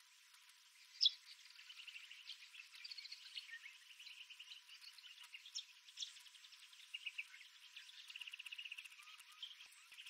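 Birds calling in dry scrub: a scatter of short chirps and rapid trills of quickly repeated notes, with one sharp chirp about a second in standing out.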